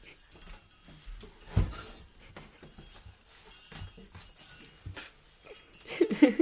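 A puppy's collar jingling as it moves, with scattered light knocks and a brief pitched, voice-like sound that glides up and down about six seconds in.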